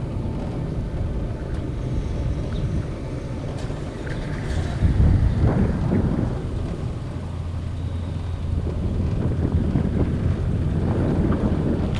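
Wind buffeting the microphone over the low rumble of a cable-car ride, which swells about five seconds in and then holds steady.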